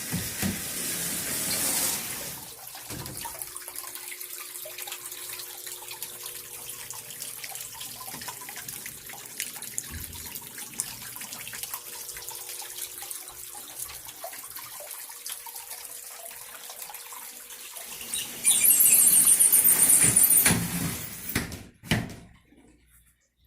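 Water running steadily from a small paludarium waterfall into its pond, with a much louder rush of splashing water near the end that cuts off suddenly.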